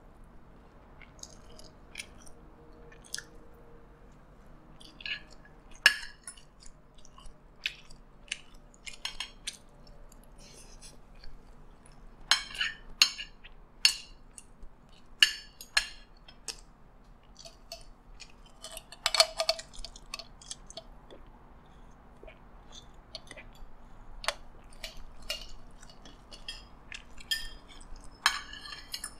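Close-miked chewing of egg fried rice, with a scatter of short wet mouth clicks and smacks. A metal spoon and fork click and scrape on ceramic plates, the loudest cluster about two-thirds of the way in.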